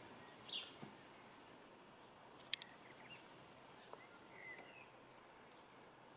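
Near silence with a few faint, brief bird chirps, one about half a second in and another about four and a half seconds in, and a single sharp click about two and a half seconds in.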